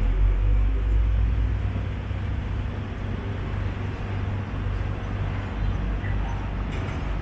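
Street traffic: a low motor-vehicle rumble over steady road noise, loudest in the first second or so and easing off after.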